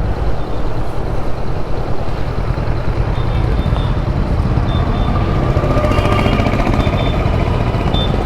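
Motorcycle running under way at road speed, a steady low engine rumble mixed with road noise; a faint higher whine joins in the second half.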